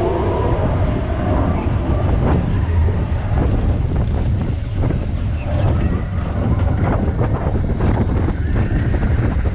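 Expedition Everest roller coaster train running along its track: a steady low rumble with irregular clacks, and wind buffeting the microphone.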